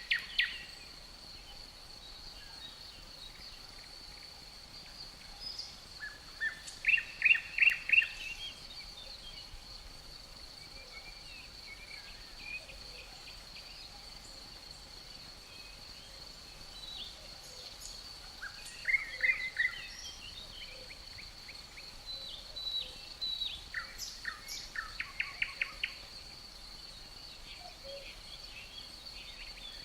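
Birds singing in short, rapid series of chirps that come every several seconds, over a steady high-pitched insect drone.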